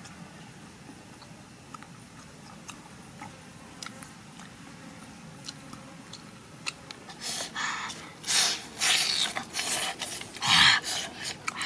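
A boy eating close to the microphone: soft, scattered chewing clicks at first, then from about seven seconds in a run of loud, rough bursts of noise from chewing and handling the food.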